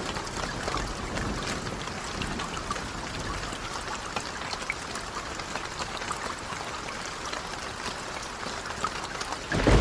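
Steady rain, an even hiss with scattered small crackles and ticks. Right at the end a deep low rumble swells in, like thunder.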